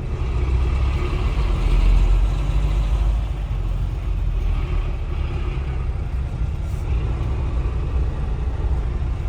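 Steady low rumble of a truck's engine and road noise heard inside the cab, a little louder about two seconds in.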